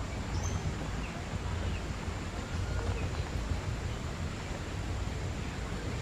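A steady low rumble with a few faint, short bird chirps.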